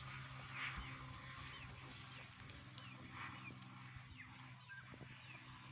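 Faint small-bird chirps: short, quick high calls scattered throughout, over a low steady hum.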